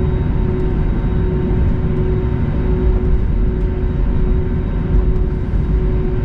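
Airbus A320neo cabin noise while taxiing after landing: a steady low rumble with a constant hum tone over it, from the engines at idle and the aircraft rolling on its wheels.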